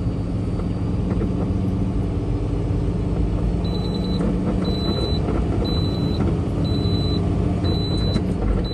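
Semi truck's diesel engine running steadily at low revs while reversing, with a high-pitched backup alarm starting about four seconds in and beeping about once a second.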